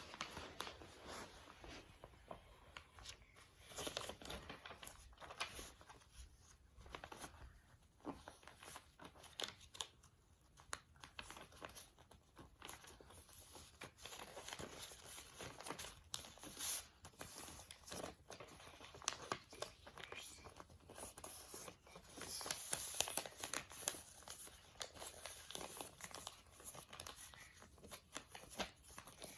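A sheet of paper being folded and creased by hand, with irregular rustling and crinkling and short sharp creasing clicks.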